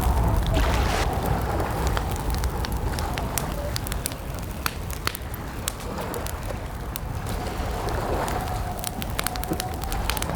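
Campfire crackling, with many irregular sharp pops and snaps over a steady low rumble. A faint wavering tone runs underneath.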